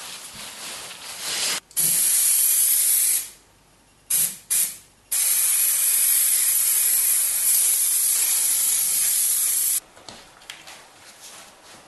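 Loud hissing spray in bursts: one of about a second and a half, two quick short ones, then a long steady spray of almost five seconds that stops abruptly.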